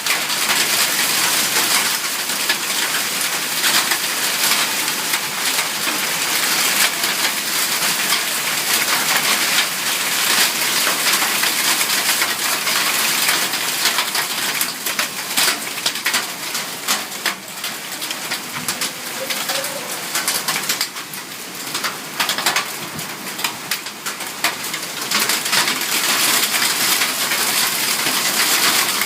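Heavy thunderstorm rain with hail pelting down, a dense steady hiss dotted with many sharp ticks of hailstones striking hard surfaces. It eases somewhat in the middle, then picks up again near the end.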